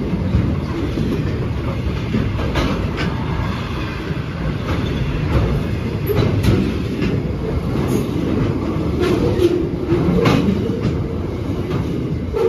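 Freight wagons of a steel train rolling past at speed: a steady heavy rumble with sharp clacks as wheels cross rail joints.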